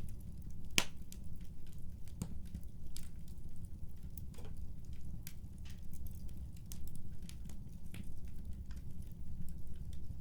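Wood fire crackling: a steady low rumble with irregular sharp pops and snaps, the loudest about a second in.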